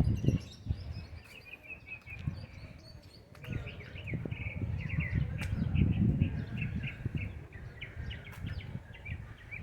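A flock of birds chirping busily, many short calls overlapping, over an uneven low rumble.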